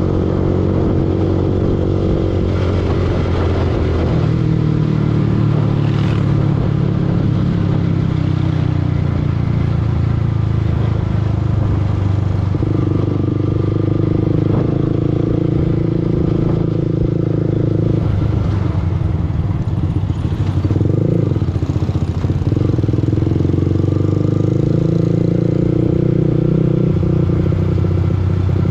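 Yamaha R15 V2's single-cylinder four-stroke engine running while riding, its revs dropping a few seconds in and then holding fairly steady.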